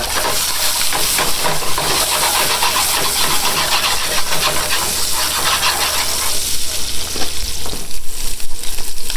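Food sizzling and crackling in a hot frying pan while a utensil stirs it.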